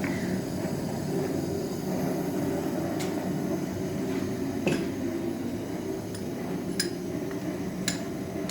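Small metal parts or tools being handled, giving a few short, sharp metallic clicks and clinks spread irregularly over a steady low background hum.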